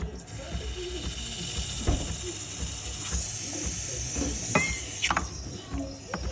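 A steady hiss that starts just after the beginning and cuts off about five seconds in, followed by a few sharp clatters.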